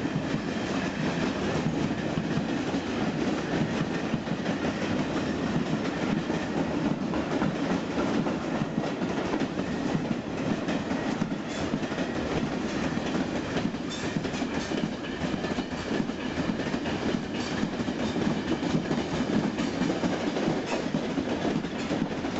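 Freight train rolling past steadily, its wheels clicking over the rail joints.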